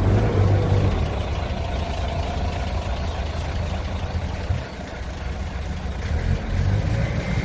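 Hino Profia heavy truck's diesel engine idling through a dual-muffler exhaust, a steady low rumble that eases slightly past the middle and swells again near the end.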